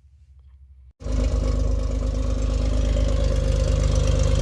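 Jeep Wrangler TJ's replacement 4.0-litre inline-six running steadily at idle; it cuts in abruptly about a second in, after a faint low hum.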